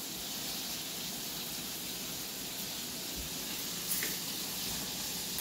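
Flour-dredged chicken pieces sizzling steadily as they shallow-fry in a little oil in two pans, with a light click about four seconds in.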